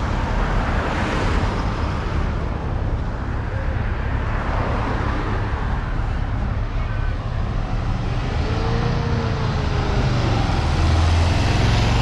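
Car engines rumbling and traffic noise as cars drive off from a car show, with a swell about a second in as one passes and a slight rise near the end.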